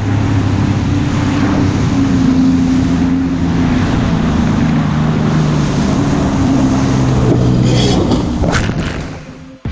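Jet ski engine running steadily at speed, with wind and water rushing across the microphone. It fades away shortly before the end.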